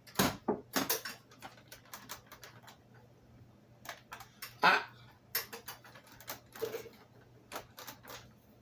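Irregular plastic clicks and knocks from handling a FoodSaver vacuum sealer, with a louder knock about halfway through. The sealer is not sealing the bag.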